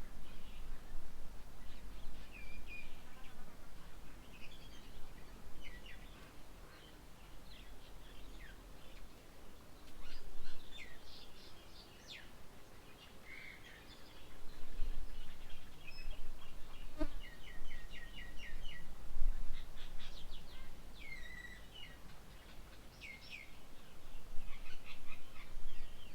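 Several wild birds chirping and calling, with scattered short chirps and whistles and a quick run of repeated notes about two-thirds of the way through, over a low background rumble.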